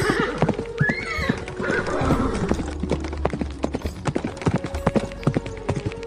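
Horse hooves clip-clopping in a run of sharp knocks, with a short horse whinny that rises and falls in pitch about a second in.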